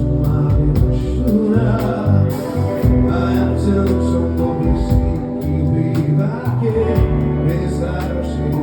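Live rock band playing on stage, with a steady drum beat, held bass notes and singing.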